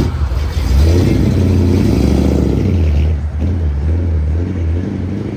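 A car's engine and exhaust running loud with a deep rumble as it pulls away, easing off near the end.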